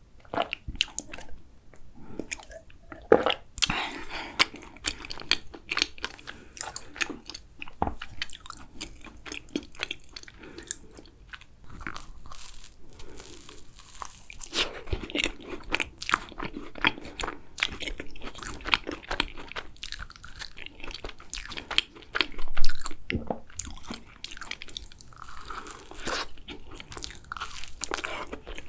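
Close-up eating sounds of macarons: biting, crisp shells crunching and chewing in an irregular run of small crackles and smacks. A louder burst comes about three quarters of the way through.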